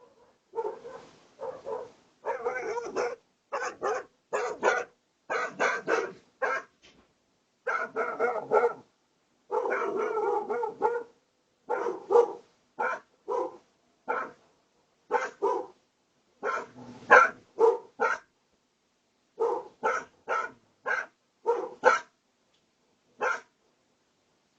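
A dog barking over and over, short barks singly and in quick runs of two or three, with brief gaps between.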